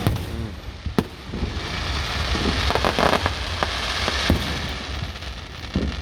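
Fireworks bursting overhead: sharp bangs at the start, about a second in and again after four seconds, with a dense crackling between them.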